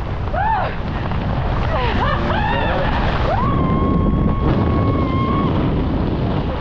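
Wind buffeting the microphone in a steady low rumble during a skydive. Over it a person gives short rising whoops, then one long, high, held cry of about two seconds.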